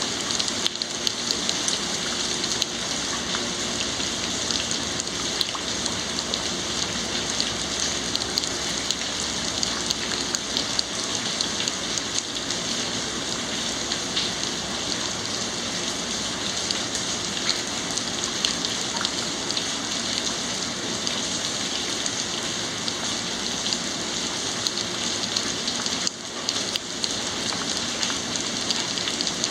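Heavy rain falling steadily, a dense hiss full of small drop ticks on hard surfaces, briefly easing a few seconds before the end.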